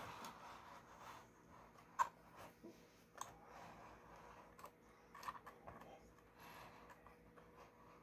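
Near silence: room tone with a few faint, short clicks, the sharpest about two seconds in.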